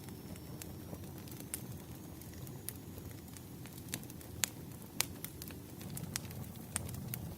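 Wood fire burning: a steady low rumble of flames with scattered sharp crackles and pops, the loudest pops about four and a half and five seconds in.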